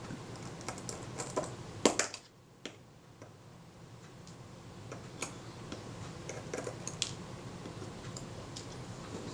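Scattered small metallic clicks and taps of a small screwdriver working the tiny screws of a Synchro-Compur camera shutter as its case and mechanism plate are taken apart, the sharpest click a little under two seconds in.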